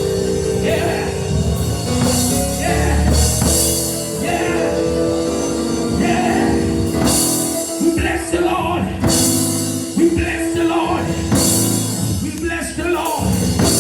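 Live gospel band music with singing: held keyboard or organ chords, guitar, and drums with cymbal crashes.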